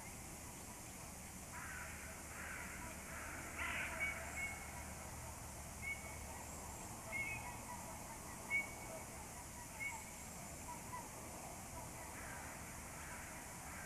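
Crows cawing, a few harsh calls near the start and again near the end, with short, thin bird notes repeating in between.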